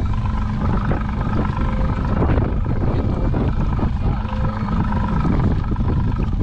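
Strong wind buffeting the microphone, with a boat motor running steadily underneath.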